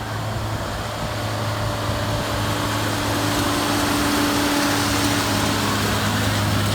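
Tractor engine running steadily with a low hum, growing louder over the first few seconds as it comes closer.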